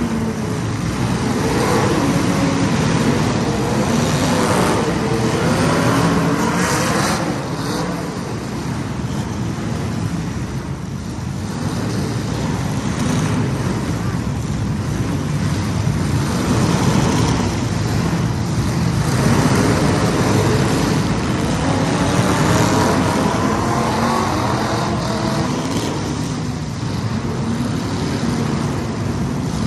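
A field of small race-car engines running hard around a short oval track. Several engine notes overlap, and each one rises and falls in pitch as the cars accelerate and lift off. The overall sound swells and eases every few seconds as the pack passes.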